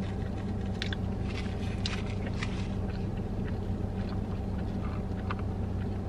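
Close-up chewing and biting on a burger, a scatter of short wet crackles and ticks, over the steady hum of a parked car's idling engine and air conditioning.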